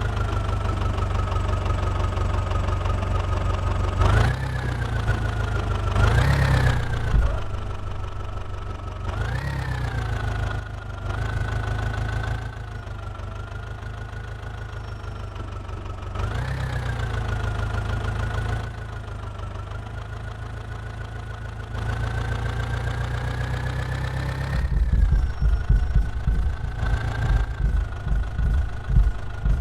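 Diesel engine of a JCB 3DX backhoe loader running and revving up sharply, then settling back, every few seconds as it works. Near the end there is a run of uneven low knocks.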